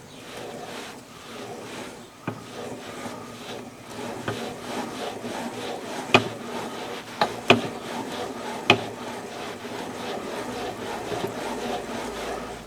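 KTM 300 two-stroke crankshaft turned by hand by its connecting rod in the newly assembled crankcases, a steady rubbing whir as oil works into the new bearings. About five sharp knocks come from the rod not being held straight, not from a fault.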